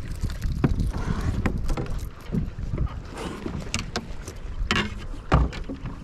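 Scattered knocks and clatter from handling a just-caught fish and gear in a kayak, over a low wind rumble on the microphone; the loudest is a thump about five seconds in.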